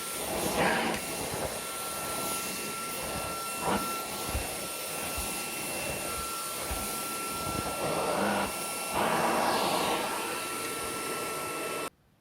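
Hitachi PV-BFH900 cordless cyclone stick vacuum running, a steady rushing of air with a thin high whine, swelling louder a few times. It is switched off near the end and cuts out suddenly.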